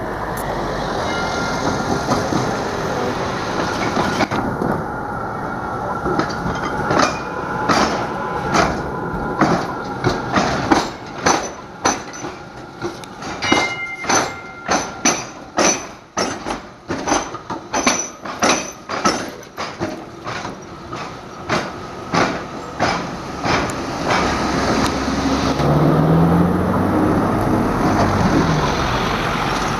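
Train passing over the railway-tramway crossing diamond: its wheels knock across the gaps in the crossing in a long, quick run of clacks, two or three a second, over a steady rumble. The clacks start about six seconds in and die away about twenty-four seconds in.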